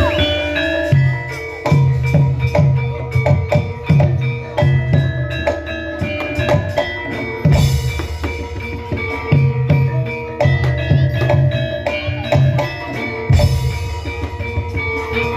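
Javanese gamelan music for a lengger dance: metallophones ringing over a steady rhythm of low drum strokes, with a loud crashing stroke twice, about halfway through and near the end.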